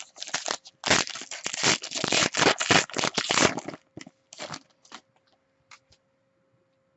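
Trading cards being handled and shuffled: a quick run of rustling, scraping strokes that thins out into a few clicks about four seconds in, then stops.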